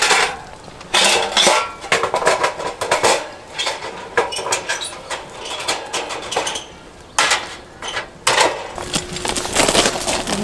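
Irregular metal clinks and knocks from a metal bush pan being handled and tapped while a wooden handle is worked into its socket.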